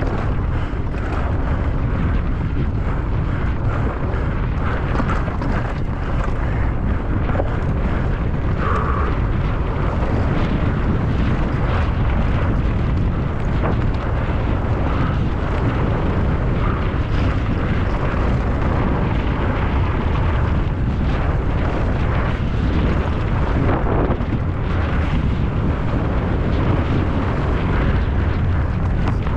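Steady heavy wind rumble buffeting a rider-mounted camera's microphone as a mountain bike descends at speed, with scattered small knocks and rattles from the bike over rough ground.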